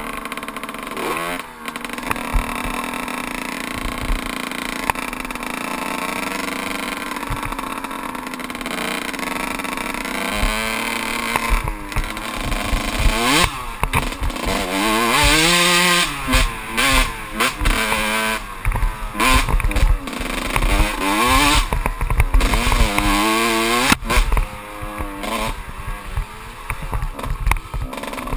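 Kawasaki KX 125 single-cylinder two-stroke dirt bike engine running at a fairly steady pitch for about ten seconds, then revving up and down again and again as the throttle is opened and closed.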